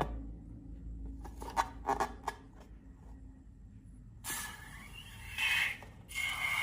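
Close-up handling sounds of slime-making with balloons: a few light clicks in the first half, then from about four seconds in a scraping, rubbing noise that swells twice.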